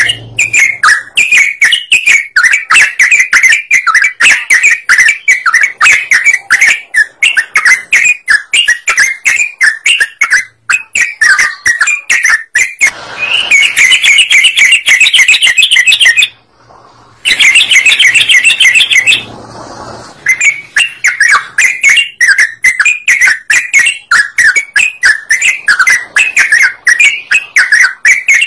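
Yellow-vented bulbul (trucukan) singing energetically: a fast, continuous run of short chirping notes. Midway it breaks into a denser, higher chatter, with a brief pause in the middle.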